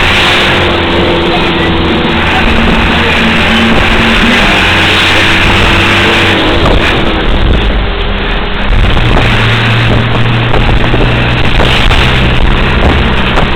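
Truck engine running while driving, with road and wind noise; the engine's pitch shifts a couple of times.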